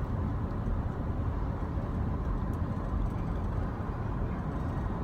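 Steady road and engine noise inside a moving car, a low rumble with no breaks.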